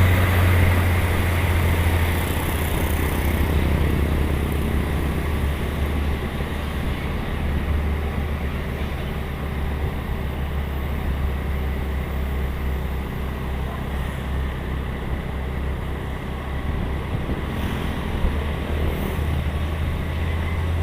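Heavy truck's engine running steadily on the road: a continuous low drone with road and tyre noise, easing slightly after the first few seconds.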